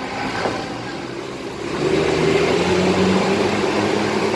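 Intercity bus engine pulling away from the terminal exit, its drone growing louder about two seconds in and then holding steady.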